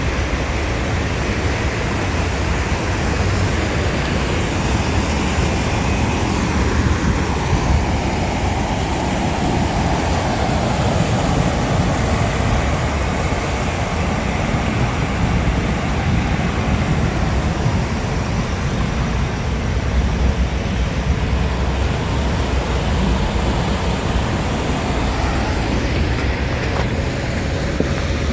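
Steady rushing noise of road traffic on wet, flooded streets, with a heavy low rumble throughout and a slight swell about a third of the way in.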